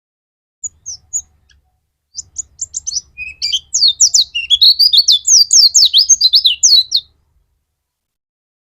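White-eye (pleci) singing: a few short high notes, then a fast, loud, rapid-fire warbling song of chirps that stops abruptly near the end. This is the kind of 'gacor' (non-stop) song played as a lure to set other white-eyes singing.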